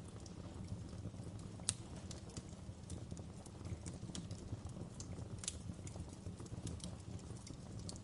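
Wood fire crackling: irregular sharp pops and snaps over a steady low rumble, with one louder pop about two seconds in.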